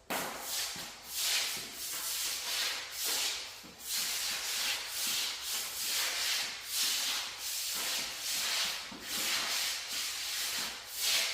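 Repeated soft swishing and rubbing noises, about one to two a second.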